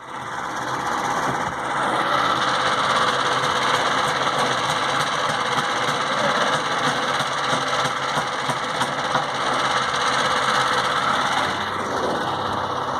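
An engine running steadily with a continuous rattle, like an engine-driven work machine in operation.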